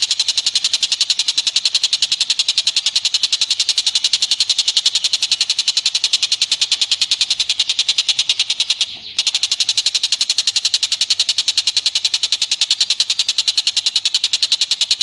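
A rapid, even train of sharp, high chattering calls from an animal call recording, broken by one short pause about nine seconds in.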